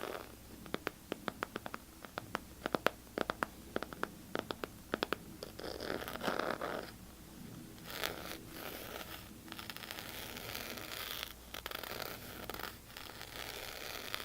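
Quick, irregular tapping, several taps a second, for about the first five seconds, then scratching on a surface, brief at first and steadier from about eight seconds in.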